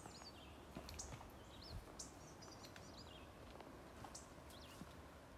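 Faint birdsong in a forest: several short, high chirps and a quick twittering phrase over a soft, steady background hiss.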